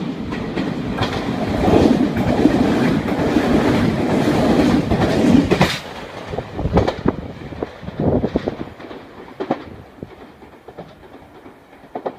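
Meitetsu electric train passing through the station without stopping: a loud rumble and clatter of wheels over the rail joints, then single sharp clacks of the last wheels crossing the joints at about one-second gaps, fading as it goes away.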